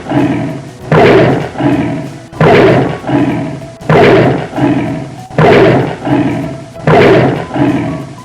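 A large animal's roar played again and again, about five times at even spacing roughly a second and a half apart, each call starting loud and fading away.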